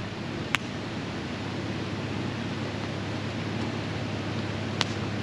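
A truck engine running at low speed as the truck creeps forward into position, under a steady hiss, with two short sharp clicks, one about half a second in and one near the end.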